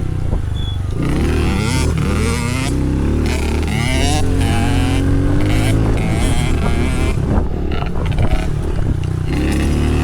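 Small dirt bike engine revving up and down, its pitch rising and falling over and over as the throttle is opened and closed.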